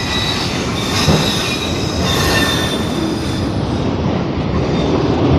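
CN manifest freight train's cars rolling past close by: a steady rumble of wheels on the rail, with a thin high wheel squeal over the first three seconds or so.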